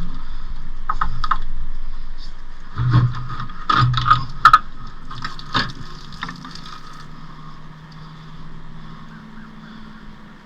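Metal knocks and scraping as a car's manual transmission is worked loose and manhandled free. The sharpest clunks bunch together between about three and six seconds in, and the sound dies down after that.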